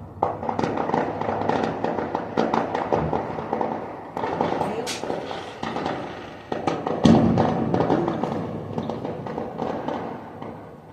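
Fireworks going off in a dense run of crackling bangs and pops, with a louder burst about seven seconds in.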